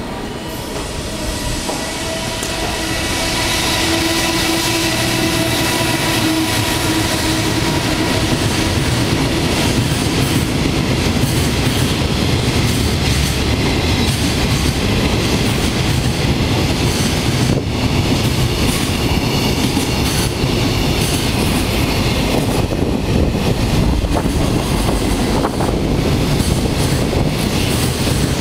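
Train running on the rails: the noise builds over the first few seconds, with a few thin steady tones early on, then holds as a loud, steady rumble.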